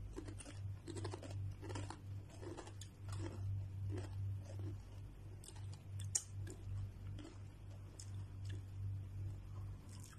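Someone chewing Doritos tortilla chips close to the microphone, a crunch about every two-thirds of a second at first and sparser later, over a steady low hum. A single sharp click about six seconds in is the loudest sound.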